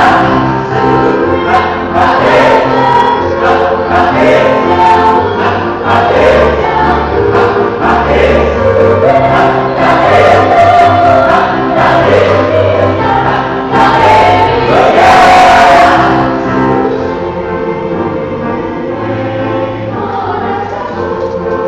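High-school choir singing sustained chords in several parts. It swells to its loudest a little past the middle, then falls to a softer passage.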